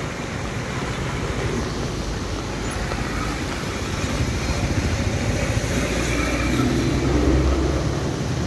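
Steady rushing noise of a monsoon-swollen river in flood, mixed with rain, with a low rumble swelling about two-thirds of the way in.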